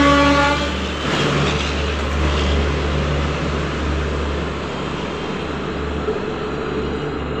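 A train horn sounds as a chord of several tones and cuts off within the first second. It is followed by the steady rumble and hum of the Garib Rath Express's ICF coaches rolling along the platform.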